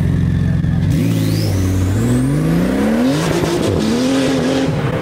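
A car engine accelerating hard. Its pitch climbs steeply from about a second in, with a high whine rising alongside. About three seconds in the pitch drops at a gear change, then climbs again.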